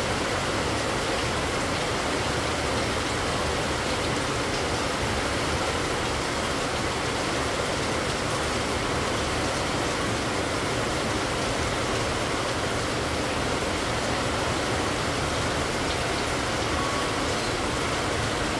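Heavy rain falling steadily, an even hiss with no pauses.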